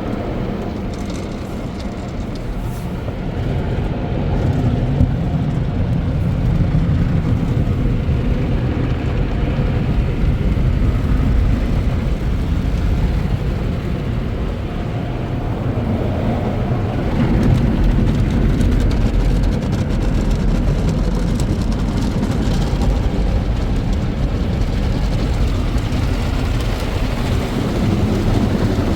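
Express car wash tunnel equipment running around a car on the conveyor, heard from inside the car: a steady low rumble with a wash of spray and brush noise that swells and eases a little.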